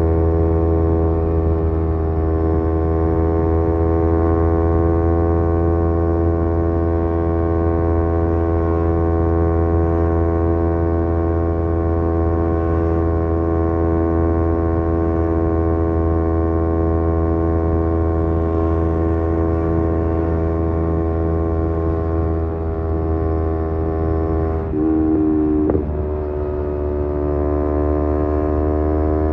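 Kawasaki Z250's parallel-twin engine running through an aftermarket SeaPro muffler while cruising at a steady, near-constant pitch. About 25 seconds in the note briefly dips and jumps as the bike changes gear, then rises steadily as it pulls again.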